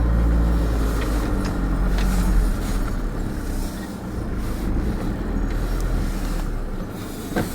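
Camper van engine running as it moves slowly at low speed, heard from inside the cab. A steady low hum for the first couple of seconds gives way to a rougher rumble of engine and road noise.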